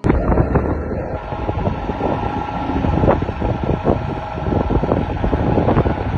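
Wind buffeting the microphone with a loud, gusty rumble, over a faint steady hum.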